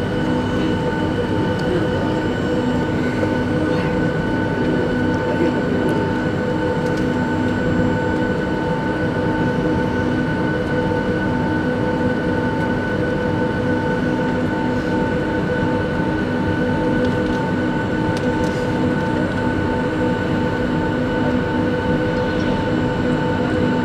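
Boeing 757 cabin noise heard from inside the cabin: the Rolls-Royce engines' steady whine, several tones at once, over a continuous airframe rumble, holding constant pitch and level throughout.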